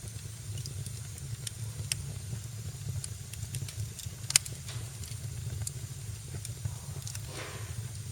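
Wood fire crackling in a fireplace: a steady low rumble of the flames with scattered small pops, one sharp loud pop about four seconds in, and a short rush of hissing near the end.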